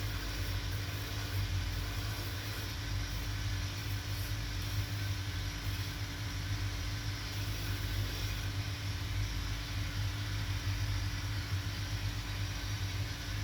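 Electric motor of a shoe-repair workshop machine running steadily, a low even hum with a hiss over it.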